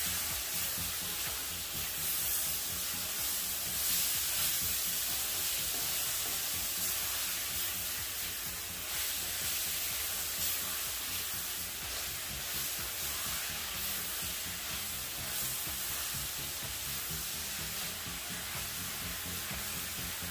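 Cubed pork, onion and tomato sizzling steadily in a hot skillet over a gas flame, stirred round with a wooden spatula that scrapes and taps the pan now and then.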